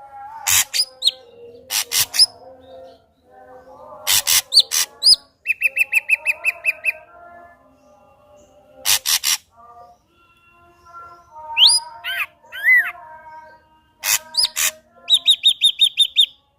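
Ashy drongo singing a loud, varied song: harsh short notes, whistled up-slurs, and two fast runs of rapidly repeated notes, the second near the end higher than the first.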